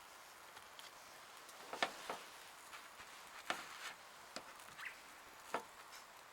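Scattered light knocks and clicks at irregular intervals, about seven of them, over a faint steady hiss.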